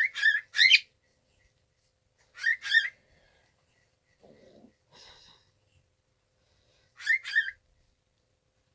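Cockatiel calling in three short bursts of two or three chirps each: one at the start, one about two and a half seconds in, and one near the end.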